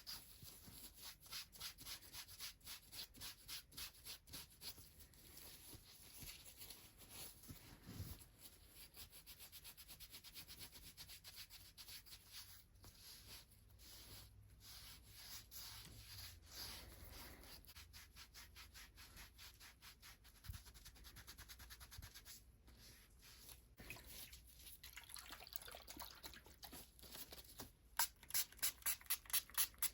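Hands rubbing and stroking bare feet in a foot massage: soft skin-on-skin rubbing in repeated strokes, becoming louder and quicker near the end.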